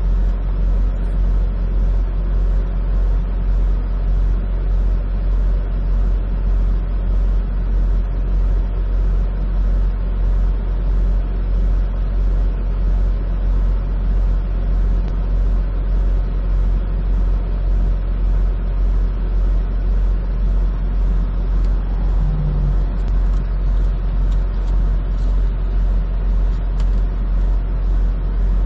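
Semi truck's diesel engine idling steadily, heard from inside the cab as a constant low rumble, with a regular tick about one and a half times a second.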